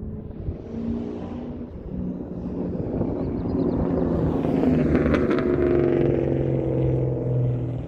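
V8 exhaust note of a 2003 Ford Mustang Mach 1's 4.6-litre DOHC engine through a Carven aftermarket exhaust, growing louder over a few seconds to a peak about five seconds in, then easing a little.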